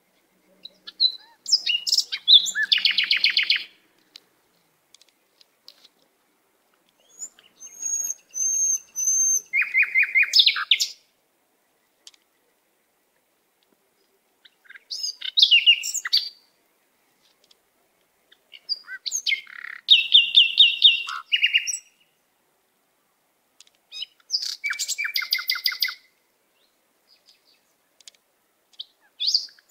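A songbird singing in short phrases of high chirps and fast trills, one phrase about every five seconds with silence between.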